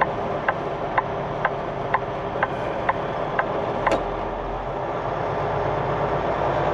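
Semi-truck turn-signal flasher clicking about twice a second in the cab, stopping about four seconds in. Then the Cummins X15 diesel's rumble grows as the truck pulls ahead.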